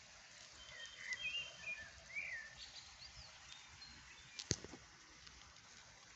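Small birds chirping, a few short twittering calls in the first three seconds over a faint steady hiss of outdoor air. A single sharp click about four and a half seconds in.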